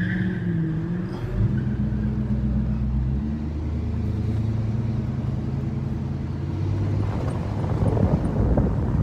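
Engine of a classic muscle car convertible cruising with the top down, a steady low rumble whose note shifts about a second and a half in. Near the end wind and road noise build up.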